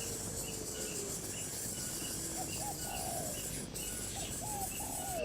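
Faint bird calls, short notes rising and falling in pitch, over a regular high insect chirping and a steady background hiss.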